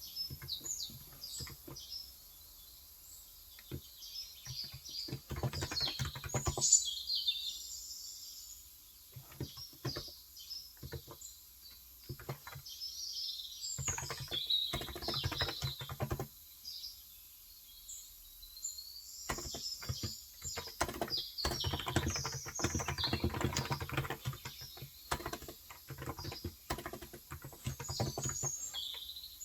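Typing in bursts on a Cox Endeavor keyboard with 35 g electro-capacitive (Topre-style) switches, with pauses between runs of keystrokes. Birds chirp throughout.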